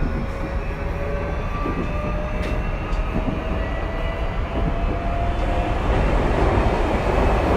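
Tokyu 2020 series electric train running, with its motor whine rising slowly in pitch over the rumble of the wheels on the rails as it gathers speed. The running noise grows louder near the end.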